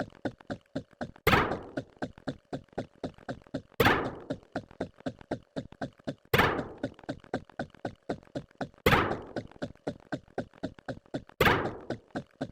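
A looped sound effect: a heavy thunk with a short falling ring-out, repeating every two and a half seconds, five times, with quick light clicks of about five a second between the thunks.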